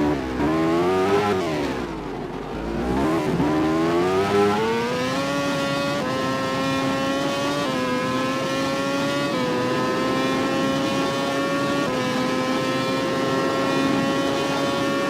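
MotoGP racing motorcycle engine: the pitch drops and rises as it slows and picks up again, then climbs and is held at high revs, with a few small jumps in pitch along the way.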